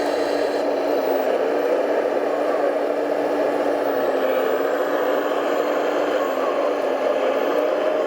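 Radio-controlled model truck's motor and drivetrain whirring steadily, holding an even pitch throughout.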